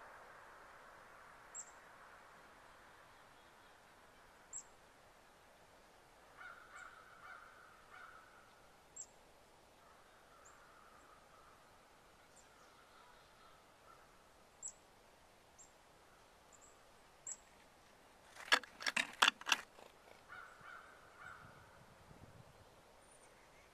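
Wild birds at a feeder: short, high chips repeat every few seconds over fainter, lower calls. About three-quarters of the way through comes a brief cluster of loud, sharp strokes, the loudest thing here.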